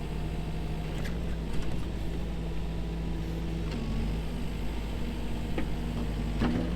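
Diesel engine of a snow-clearing machine (Cat skid steer or backhoe) running steadily while it is stuck in deep snow. Its pitch steps up a little about four seconds in.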